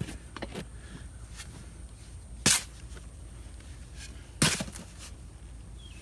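Soil and compost being scooped and mixed: two short, sharp scraping strokes about two seconds apart, the second trailing off in a brief rustle, with a few fainter scrapes between.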